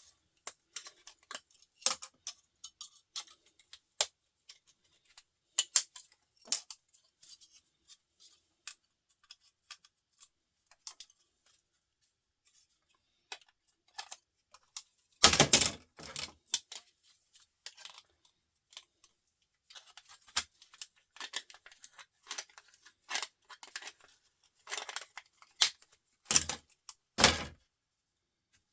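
Irregular clicks, snips and small scrapes of metal and plastic laptop parts being pulled apart by hand with tools to strip out the copper. A louder clatter comes about halfway through, and a few more near the end.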